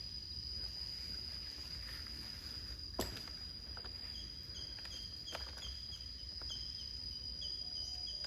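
Forest insects: a steady high-pitched buzzing drone, joined about four seconds in by an evenly repeated chirping, roughly two to three chirps a second. A single sharp click about three seconds in.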